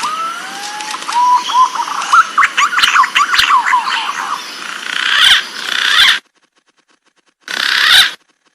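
Green pigeon (punai) song: a run of fluting whistles that slide up and down, ending abruptly about six seconds in. A short hissy burst follows near the end.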